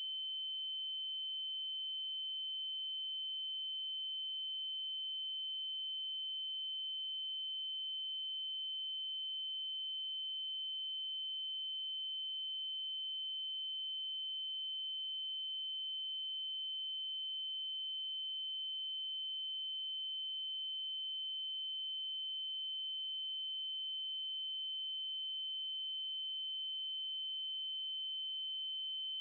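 A steady 3072 Hz triangle-wave tone, a single high-pitched electronic pitch that holds without change, with faint higher overtones.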